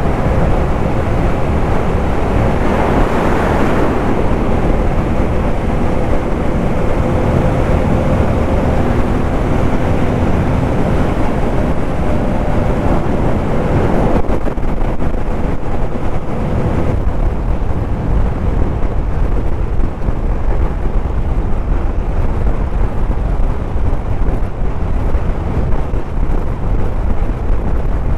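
Suzuki motorcycle running at highway speed, with heavy wind rush on the microphone over a faint steady engine note. A brief louder rush comes about three seconds in.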